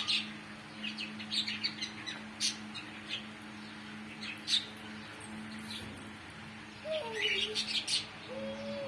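Small birds chirping in short, scattered tweets, over a steady low hum.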